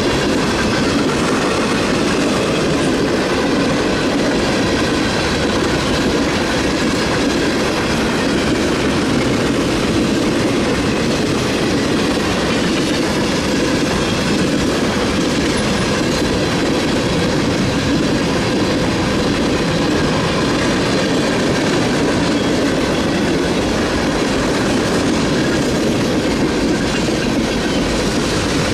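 A Norfolk Southern freight train's mixed cars (covered hoppers, boxcars, tank cars) rolling past at speed: a steady, unbroken rumble of steel wheels on rail.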